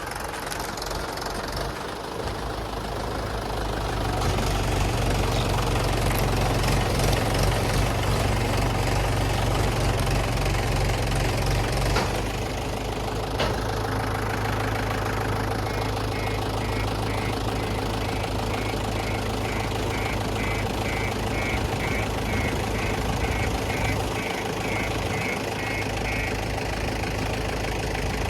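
Heavy diesel engine running steadily under load, louder for several seconds after the start. Partway through, a rapid series of short high beeps repeats for about ten seconds.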